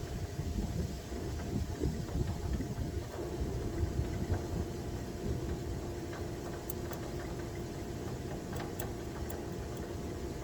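Steady low mechanical rumble with a constant faint hum; a few light clicks come in the second half.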